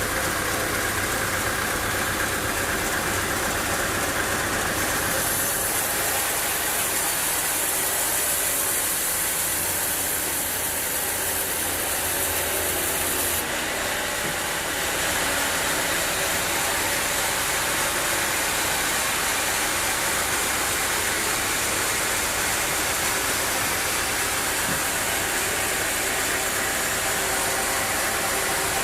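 Sawmill machinery running steadily with a continuous mechanical hum and noise. A higher hiss joins about five seconds in and drops away about halfway through.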